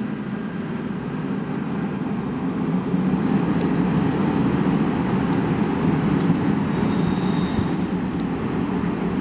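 A train running past on the rails: a steady loud rolling rumble, with a thin high-pitched squeal that fades out about three seconds in and comes back near the end.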